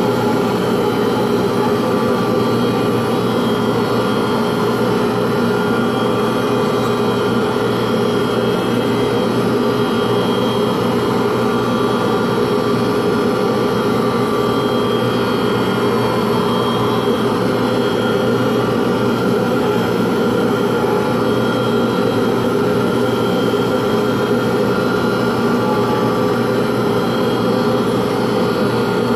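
Electric motor of a pen-turning machine running steadily, a constant hum with several fixed tones that does not change.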